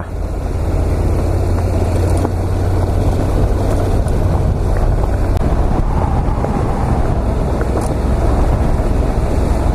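Heavy motorcycle engine running steadily while riding, with wind noise on the microphone.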